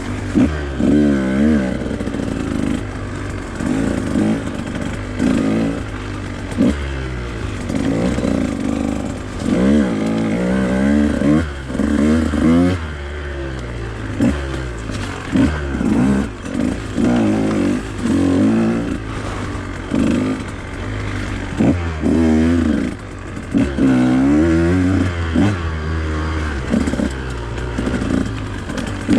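Husqvarna TE 150 two-stroke dirt bike engine under way on a trail, the throttle opening and closing over and over so the pitch keeps rising in short bursts and dropping back.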